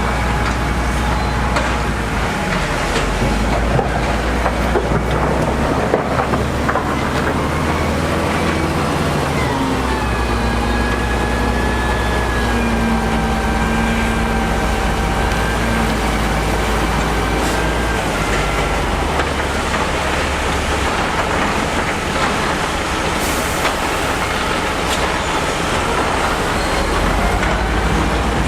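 Heavy diesel construction machinery running steadily under load, with a deep rumble and pitched whines that drift slowly up and down in pitch.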